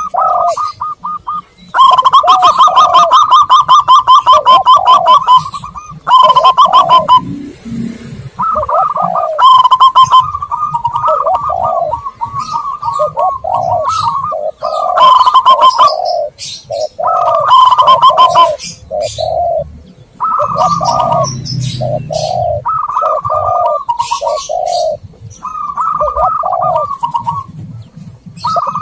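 Zebra doves and spotted doves cooing over and over: phrases of fast, rapidly repeated notes alternating with lower rounded coos, with thin high chirps mixed in, as in a dove lure recording.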